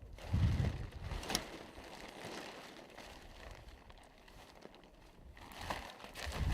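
Wind buffeting the microphone in gusts, with faint handling or rustling noises and a sharp click about a second in.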